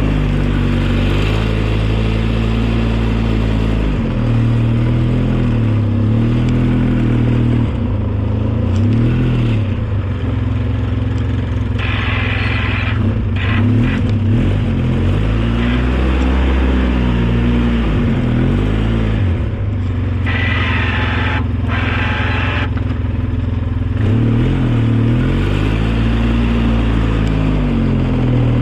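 Engine of an old snowplow vehicle running under load, its speed dropping and rising again and again as it pushes snow. A couple of short bursts of hiss come in about halfway through.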